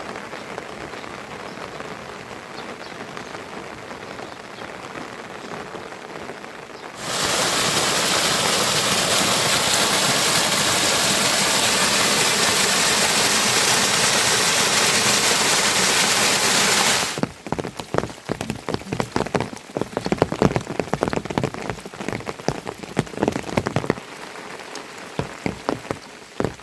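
Rain falling, in three sections: a steady moderate patter, then about 7 s in a much louder, dense downpour hiss lasting about ten seconds, then from about 17 s separate drops striking a surface in quick, uneven ticks.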